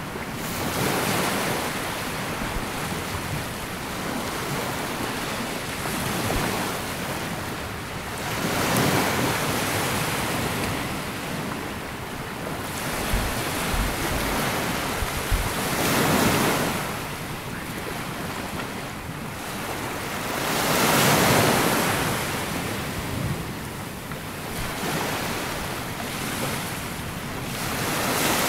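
Sea waves washing onto a sandy beach, the surf swelling and falling back every five to seven seconds, with wind buffeting the microphone in a few low thumps near the middle.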